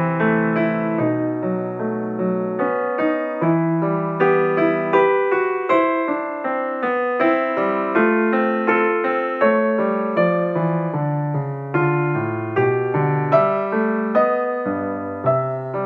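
Background music: a gentle piano piece, played as a flowing run of single notes over held low notes.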